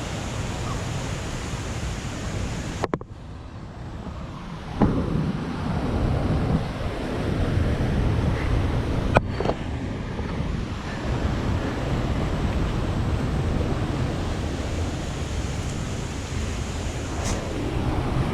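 Steady rush of falling water from a waterfall, with wind buffeting the microphone. A couple of sharp knocks come through, about five and nine seconds in.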